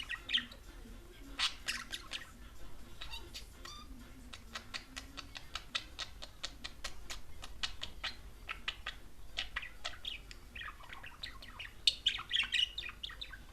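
Male budgerigar chattering: squawky chirps at the start, a long run of rapid clicks through the middle, and a burst of warbling chirps near the end.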